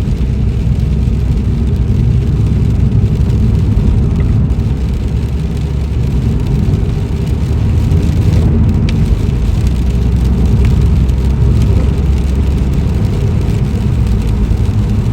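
Steady in-cabin noise of a car driving in heavy rain on wet roads: a low rumble of engine and tyres, with rain on the car.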